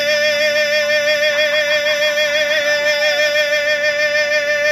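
A solo singing voice holding one long, high note with a light vibrato, sung in an exaggerated, showy way.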